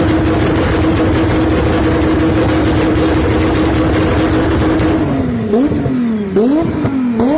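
Car engine held at steady high revs, then revved up and down about three times from about five seconds in, the pitch sagging and jumping back each time.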